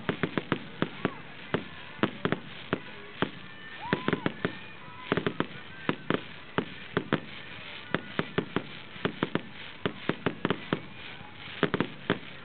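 Fireworks display: aerial shells bursting in a rapid, uneven string of sharp bangs and crackles, several a second.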